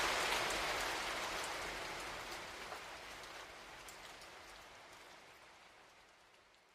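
Rain falling, with scattered separate drops ticking through the steady hiss. It fades out evenly and is almost gone by the end.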